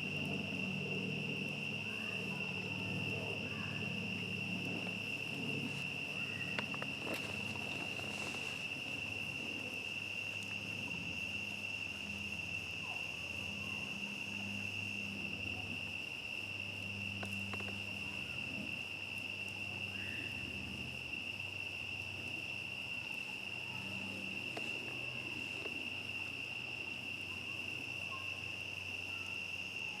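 A chorus of crickets chirping in one steady, unbroken high trill, with a few scattered sharp pops from a crackling campfire.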